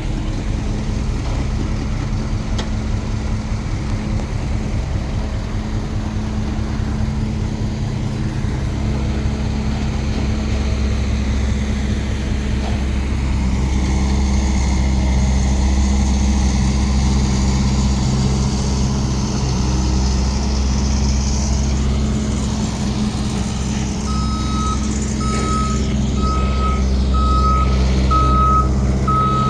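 Heavy construction machine's engine running steadily, growing a little louder partway through. In the last few seconds a reversing alarm starts beeping at a single pitch, a little over once a second.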